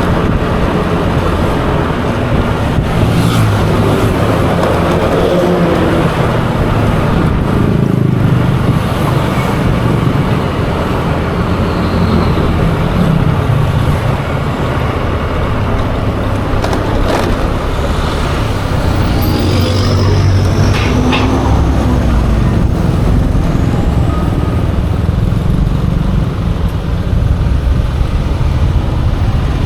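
Yamaha Aerox 155 scooter running on the move through city traffic, with steady road noise. A brief high-pitched squeal comes about twenty seconds in.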